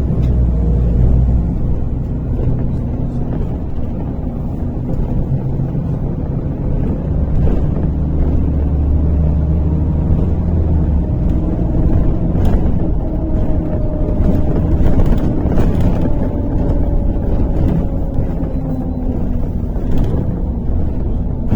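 Steady low engine and road rumble heard inside a MAZ-103.485 city bus under way, with a faint whine that rises and falls. A few rattles and knocks come in the second half.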